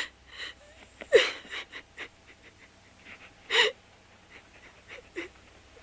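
A person crying: short, wavering sobs and whimpers with gasping breaths in between, loudest about a second in and again a little past halfway.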